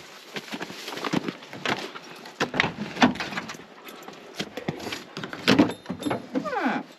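Gear being handled at a truck: a run of irregular knocks, clunks and rattles, with a short falling squeak near the end.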